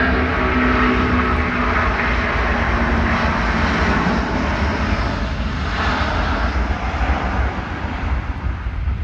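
Jet airliner's engines running at high thrust as it departs, a loud steady rumble with a whine in it that fades toward the end.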